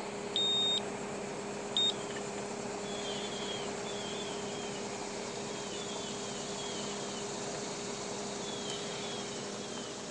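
Steady hum of an outdoor AC unit's variable-speed condenser fan motor running on its own, with the compressor not running. Two high electronic beeps, a longer one about half a second in and a short one just under two seconds in, are the loudest sounds.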